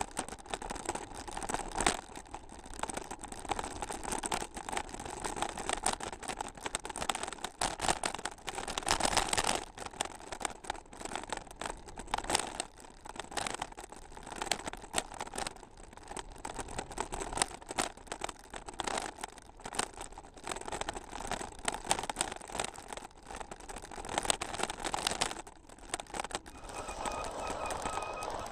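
Bicycle rattling and crunching over a rough gravel trail: a steady stream of irregular knocks, clicks and jolts from the tyres and frame.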